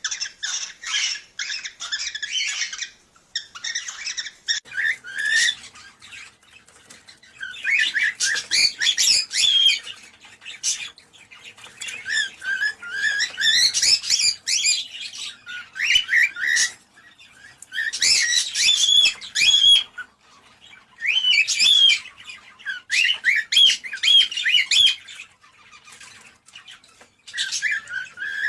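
Cockatiels chirping and squawking in bouts of rapid, sliding calls a few seconds long, separated by short pauses.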